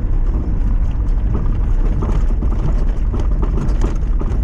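Lifted Mazda MX-5's four-cylinder engine running as the car drives over a rough track: a steady low rumble with scattered small knocks and rattles.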